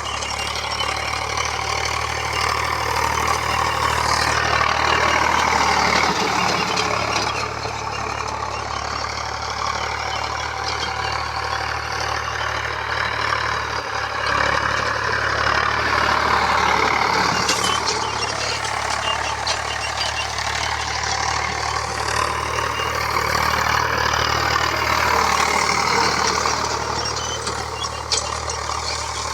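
Tractor diesel engine running steadily, its sound swelling and easing every several seconds.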